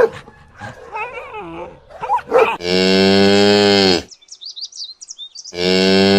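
A cow mooing twice, each a long, loud call of about a second and a half that drops slightly in pitch. It is preceded by a short dog bark at the very start.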